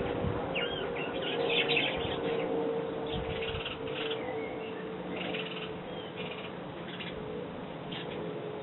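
Sparrows chirping, a string of short repeated chirps, over a steady faint hum.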